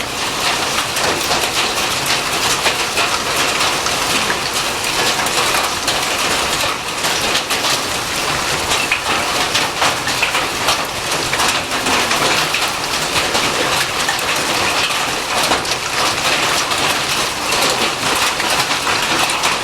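Hail falling hard, a dense steady clatter of countless small hailstone hits on surfaces mixed with the rush of heavy precipitation.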